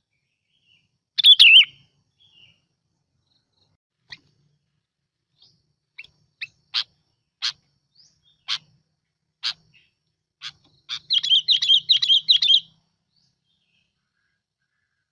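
Sooty-headed bulbul singing, used as a lure call: a short warbled phrase, then a run of single sharp notes about one a second, then a fast bubbling phrase near the end.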